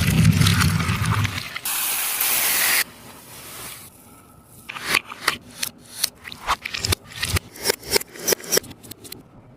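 Sticky taba squishy being squeezed and released, its tacky tape surface peeling apart in a run of irregular sharp crackles in the second half. Before that there is a loud low rumble with hiss, then about a second of steady hiss.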